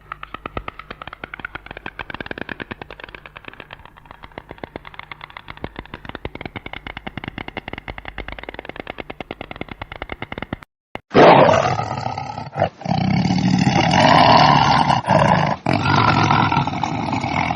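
A rapid, even pulsing for about ten seconds, then, after a short break, a loud animal roar with several pushes that carries on to the end.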